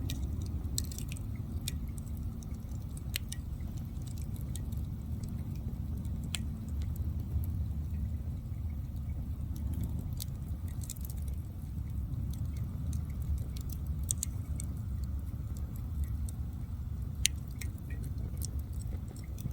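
Wood fire burning: a steady low rumble of flames with irregular sharp crackles and pops, one louder pop near the end.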